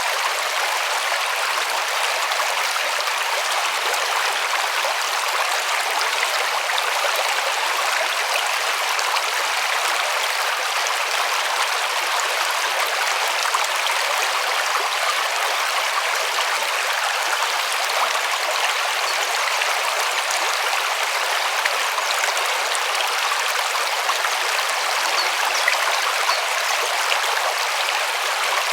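A river running over stones: a steady rushing and babbling of flowing water.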